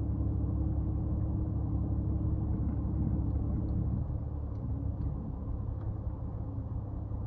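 Steady low engine and road rumble of a car being driven, heard from inside the cabin, easing off slightly about four seconds in.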